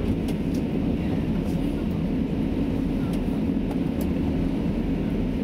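Onboard running noise of a Class 175 diesel multiple unit on the move: a steady low rumble from the engine and the wheels on the track, with a few faint clicks.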